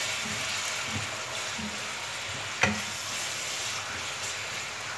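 Sliced onions and chopped red and yellow peppers sizzling steadily as they fry in a frying pan, stirred with a utensil scraping through them. A single sharp knock a little past halfway.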